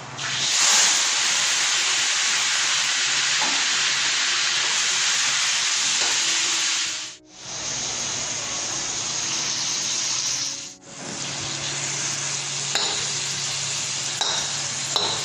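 Raw chicken pieces sizzling in hot oil in a wok, a loud, dense hiss that swells within the first second after they go in. The hiss cuts out suddenly twice, about seven and eleven seconds in, and returns each time.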